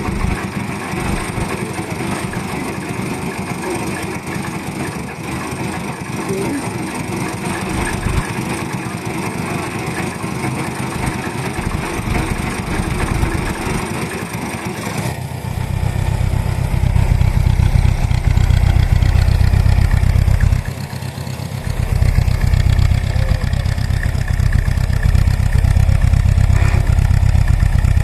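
Vintage stationary engines (Japanese kerosene farm engines) running. About 15 seconds in, the sound changes suddenly to a louder, deep, steady engine beat, which dips briefly about 21 seconds in and then picks up again.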